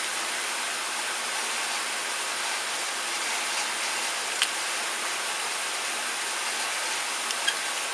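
Steady background hiss, with a few faint clicks of small screws being tightened by hand.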